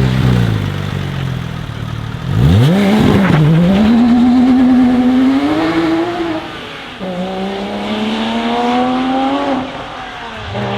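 A sports car engine blips about two seconds in, then accelerates hard with its pitch climbing steadily. It shifts up about seven seconds in, climbs again, and fades near the end.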